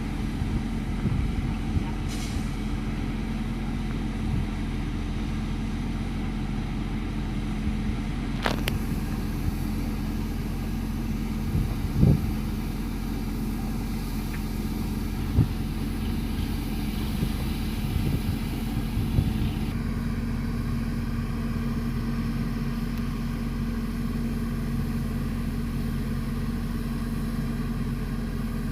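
Fire engine's engine running steadily, with a few short knocks in the middle; the hum changes slightly about two-thirds of the way through.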